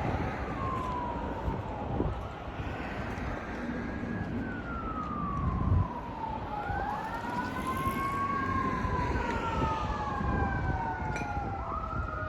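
Emergency vehicle sirens wailing, two or more slow rising-and-falling tones overlapping out of step, over a low rumble of wind on the microphone.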